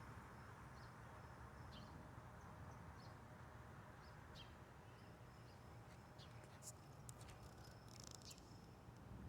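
Faint outdoor ambience: short, high bird chirps about once a second over a steady low hum and hiss, with a denser flurry of chirps and clicks about two-thirds of the way through.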